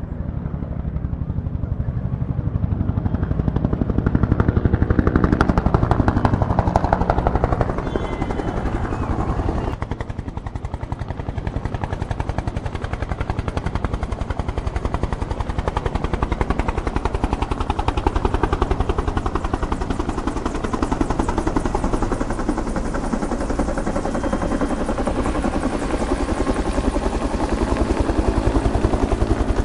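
Small brushless-motor RC helicopter in flight, its rotor blades and motor giving a fast, steady pulsing whir. It is louder for a few seconds about four seconds in and dips briefly near ten seconds in.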